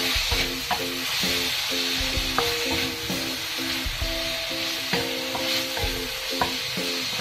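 Chicken wings and sausage sizzling in a stainless steel wok as a wooden spatula stir-fries them, with the spatula clicking and scraping against the pan now and then. Background music plays with a steady, repeating rhythm.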